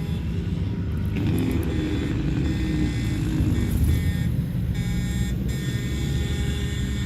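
Steady low rumble of a continuous stream of heavy diesel trucks driving past.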